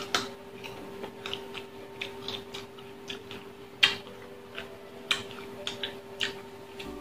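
Crisp bites and chewing of unripe green mango slices: irregular sharp crunches and mouth clicks, the loudest about four seconds in.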